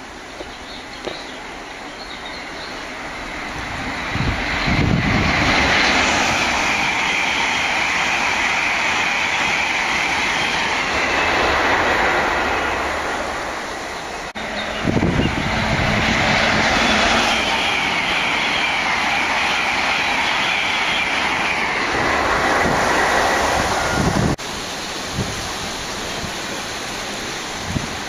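Trains passing at speed on the main line, a loud rushing of wheels on rail that swells and fades twice, one pass straight after the other.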